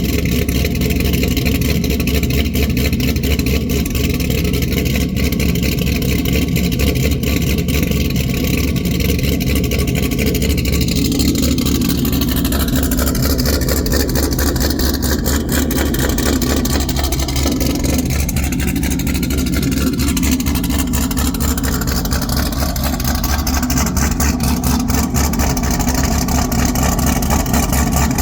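Camaro ZL1's supercharged 6.2-litre LSA V8, fitted with a BTR Stage 3 torque cam and running on E85, idling after a cold start with a choppy, pulsing idle.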